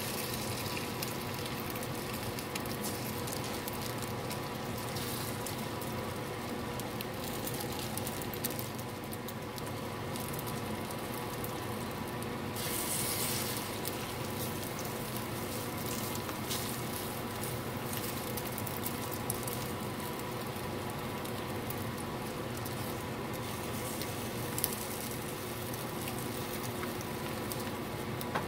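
Egg-soaked sweet rolls frying as French toast in a nonstick pan: a steady sizzle with scattered small clicks, and a brief louder hiss about halfway through.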